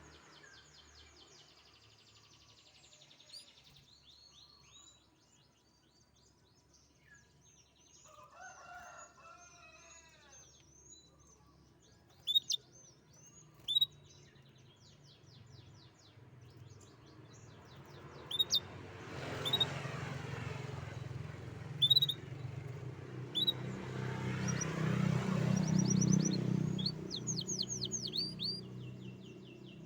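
Domestic canary singing: fast high trills and sharp single chirps. A louder rushing noise with a low hum swells and fades twice in the second half.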